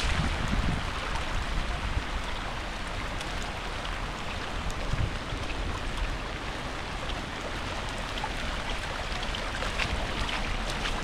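Steady rain falling, an even hiss with faint scattered ticks. Wind buffets the microphone briefly at the start and again near the end.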